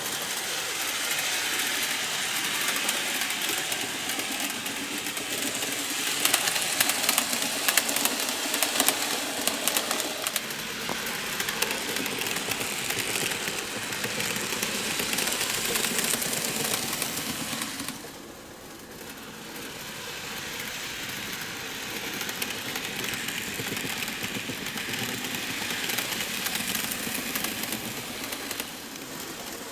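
N-gauge model train running on track after maintenance of its motor car: a steady whirring rush of the small motor and wheels on the rails, with crackly clicks about six to ten seconds in. It drops away briefly about eighteen seconds in, then picks up again.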